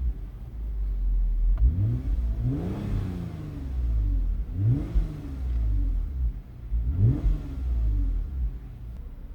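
Toyota Avalon TRD's 3.5-litre V6 and TRD exhaust being revved from idle in neutral: three quick revs about two seconds apart, each rising sharply and falling back to a low idle rumble.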